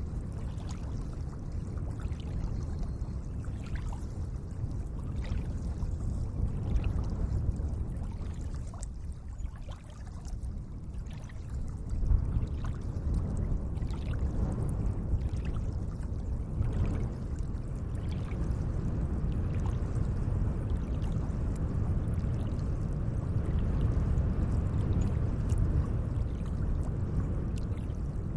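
Gentle lake water moving and lapping in a steady low wash, with small splashes and trickles throughout and a brief louder surge about twelve seconds in.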